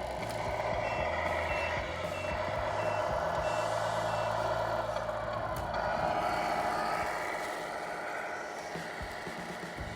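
Sound unit of a Tamiya King Hauler radio-controlled truck playing a truck engine sound that rises and falls, with reversing beeps at about two a second for the first few seconds as it backs up.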